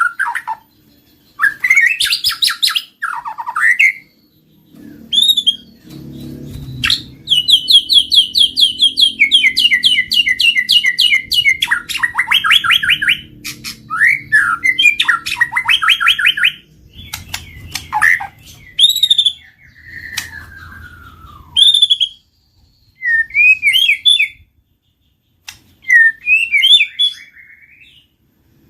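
White-rumped shama (murai batu) singing: loud, varied phrases of fast repeated chattering notes, trills and clear whistled glides, broken by short pauses. A faint low hum sits underneath through the middle.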